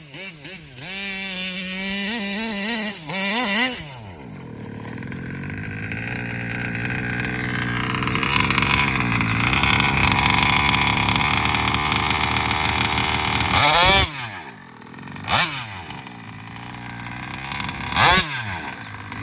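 Taylor 35 cc reed-valve two-stroke engine of a large-scale RC car revving in quick throttle blips. It then holds at high revs for several seconds, drops back, and gives three more sharp blips near the end.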